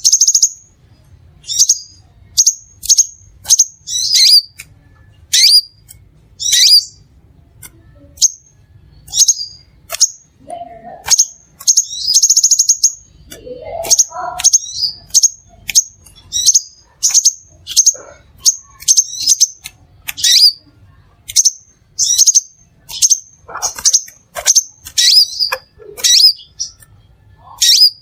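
Crimson sunbird singing: a loud run of sharp, high chirps, about one or two a second, with a brief rapid trill about twelve seconds in and a few lower sliding notes around it.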